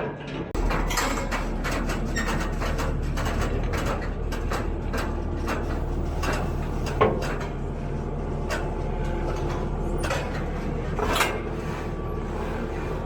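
A Kubota SVL75-2 compact track loader's diesel engine running steadily, with frequent metal clanks and knocks over it. The loudest knocks come about seven seconds in and again about eleven seconds in.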